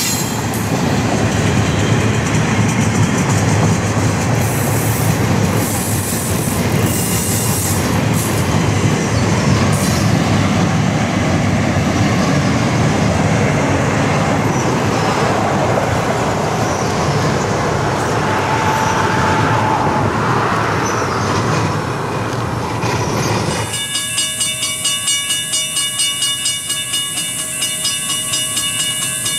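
CSX freight train passing close by, its wheels and cars making a steady, loud rolling rail noise. About 24 s in this cuts off abruptly and a steady high hiss with a fast, regular pulse takes over.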